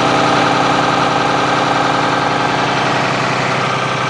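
Blue Bird All American school bus's Cummins ISB six-cylinder diesel idling steadily.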